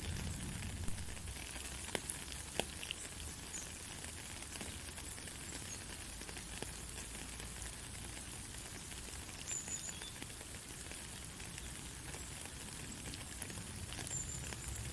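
Steady rain falling with a continuous hiss, scattered sharp drop ticks and a low rumble underneath.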